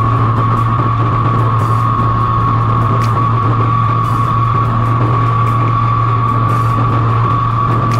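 A motor running steadily, a constant low hum with a high whine over it.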